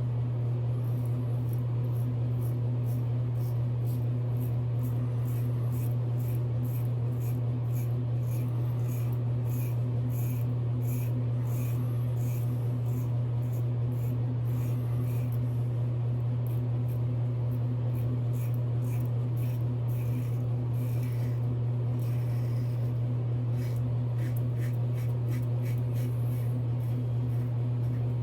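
Double-edge safety razor scraping through lathered stubble in short, repeated rasping strokes, a couple a second, during the first shaving pass. A steady low hum runs underneath.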